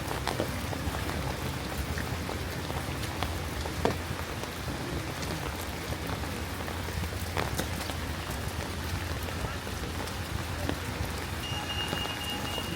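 Steady rain, with many individual drops ticking sharply close by. A steady high tone starts about a second before the end.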